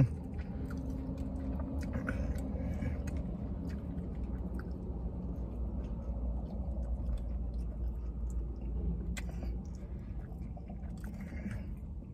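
A man chewing and biting into a burger, soft irregular mouth noises with a few faint clicks, over a steady low hum.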